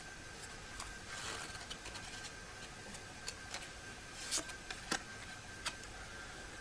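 Tarot cards being handled and laid out on a table, faint: a soft rustle about a second in and a few light clicks and taps of the cards.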